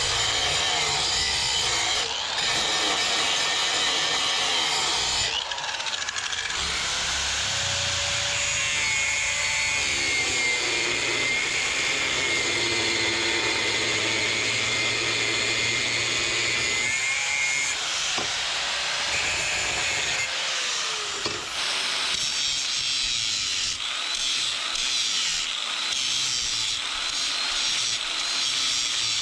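Power grinder working steel, a steady abrasive whine and hiss, in several back-to-back stretches that change abruptly.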